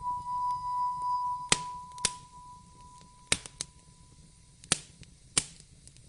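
Wood fire crackling in a fireplace, with about six sharp pops spread through over a low, steady rumble. A single clear high tone sounds at the start and fades away over about four seconds.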